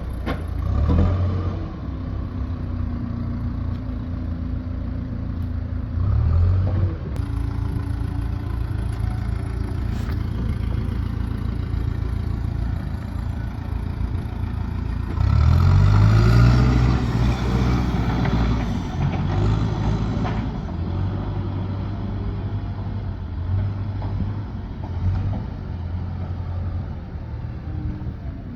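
A motor vehicle engine running steadily, revving up about halfway through and then settling back.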